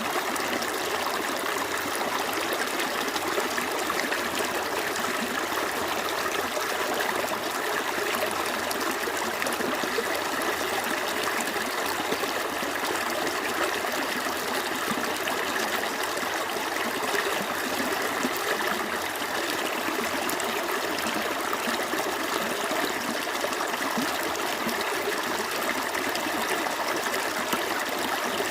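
Small stream flowing over rocks: a steady, even babble and trickle of running water with no breaks.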